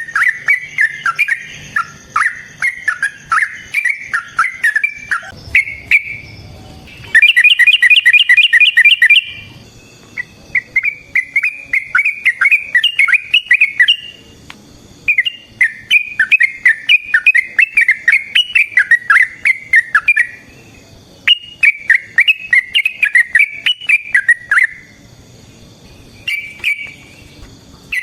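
Sooty-headed bulbul (trucukan) singing in long, rapid chattering phrases of quick notes broken by short pauses. About seven seconds in comes a very loud run of fast, evenly repeated notes.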